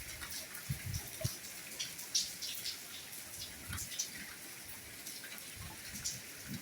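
Soft rain falling, with separate drops ticking irregularly and a few heavier low thuds of drops landing.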